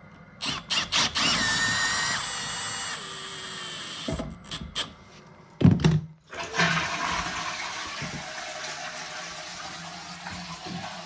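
Toilet being flushed and its cistern refilling: a few clicks of the flush, a rush of water with a whistling tone for a couple of seconds, some knocks and a thump, then a steady hiss of water running in through the newly fitted bottom-entry brass fill valve.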